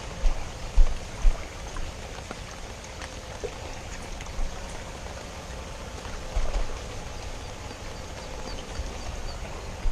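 Steady rain hiss with a few short, low thumps, the loudest near the start and about six and a half seconds in.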